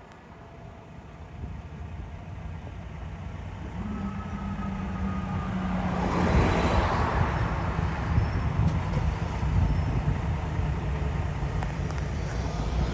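Seagrave Attacker HD fire engine's diesel engine running and growing steadily louder, with a broad hiss of released air about six seconds in.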